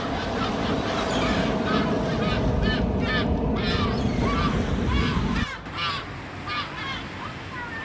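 A flock of gulls calling, many short repeated cries overlapping, over a low steady rumble that cuts off suddenly about five and a half seconds in.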